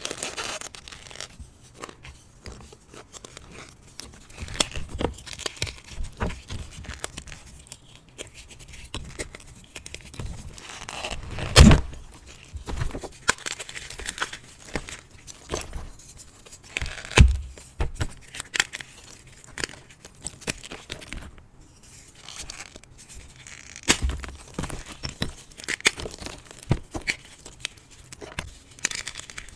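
A block of hard reformed gym chalk, lightly coated in cornstarch, is crushed and crumbled by hand. It gives a steady run of small crunches and crackles, with louder snaps where the hard block breaks, the loudest about twelve seconds in and another about seventeen seconds in.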